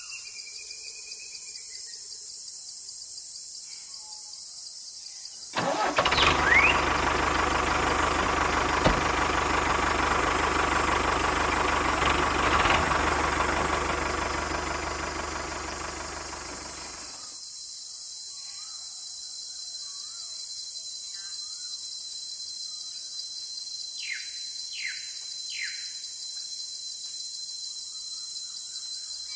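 A motor starts abruptly about five seconds in, runs steadily for about eleven seconds and cuts off sharply. Faint bird chirps are heard before and after it, with three quick chirps near the end.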